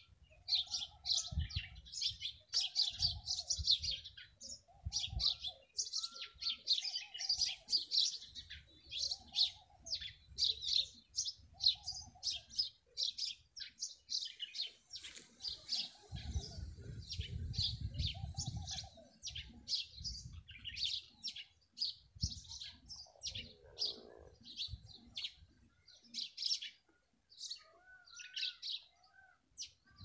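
Small songbirds chirping and twittering rapidly and continuously, with a lower, arched call repeating about once a second through the first two-thirds. A low rumble underlies it, heaviest a little past the middle.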